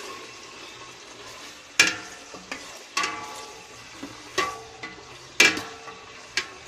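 Sliced chicken breast sizzling in butter and oil in a frying pan while it is stirred, with several sharp knocks of the stirring utensil against the pan.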